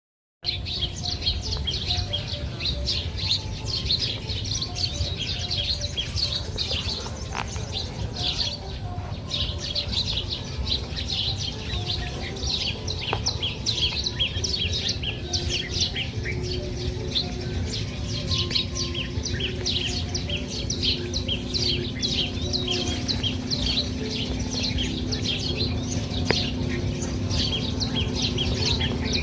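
A dense chorus of many small birds chirping without pause, over a steady low rumble. A faint steady hum joins about halfway through.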